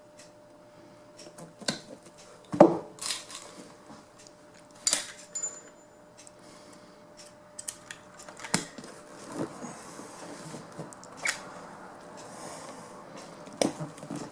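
Hand work on an upholstered seat cover: irregular sharp clicks and knocks with rustling in between, the loudest knock a few seconds in.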